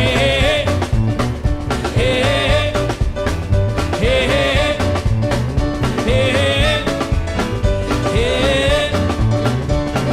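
Swing band playing an instrumental passage, without vocals: a short riff repeats about every two seconds over a steady beat.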